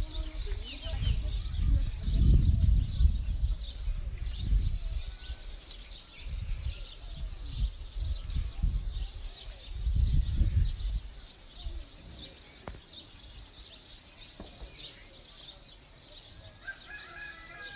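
Many birds chirping, with gusts of low rumble that are loudest in the first few seconds and again about ten seconds in.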